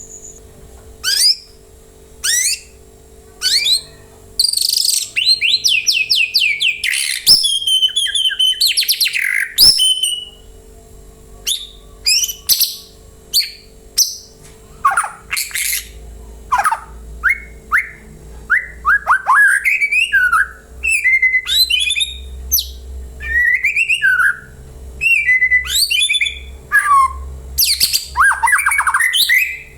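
Murai (white-rumped shama) singing a long, varied song in short phrases of clear whistles, rising and falling notes and rapid trills, with brief pauses between them.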